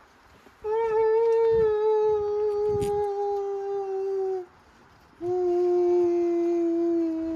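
A dog howling: two long howls, each slowly falling in pitch, the second lower than the first, with a short pause for breath between them.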